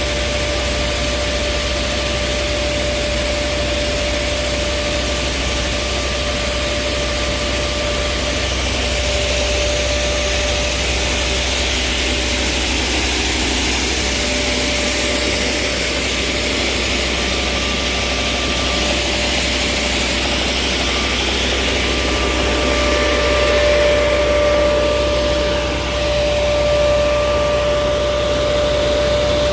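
Pneumatic grain vacuum conveyor running steadily: a loud rush of air with a constant whine, over a low engine drone.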